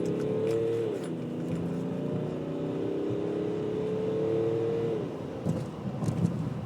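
Chipped 2011 BMW X5 twin-turbo diesel accelerating hard on a 0-60 run: the engine note drops at an upshift about a second in, then climbs steadily through a long pull before falling away about five seconds in.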